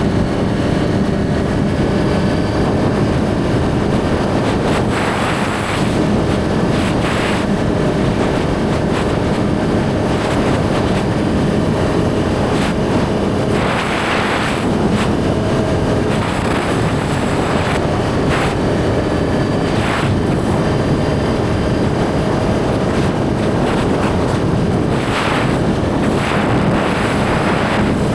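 Suzuki GSX-R1000 inline-four engine running at a steady cruise, buried in heavy wind rush on the helmet microphone, with a few short hissy gusts along the way.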